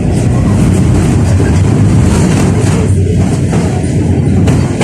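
71-605A (KTM-5A) tram running along the track: a loud, steady rumble of the car and its wheels on the rails.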